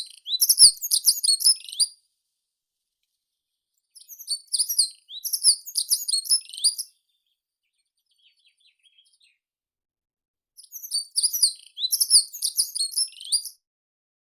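A meadow songbird singing three fast, high, chirping song phrases of about three seconds each, a few seconds apart.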